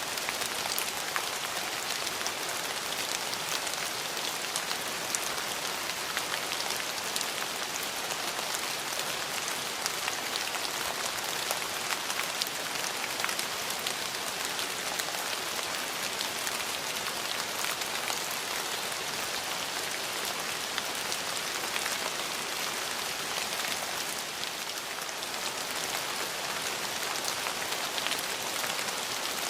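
Steady rain falling on surfaces: a constant hiss with many small drop ticks mixed in.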